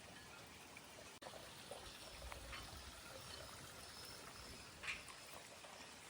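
Faint water lapping and trickling at the lake's edge, with a few small splashes or clicks, the most distinct about five seconds in.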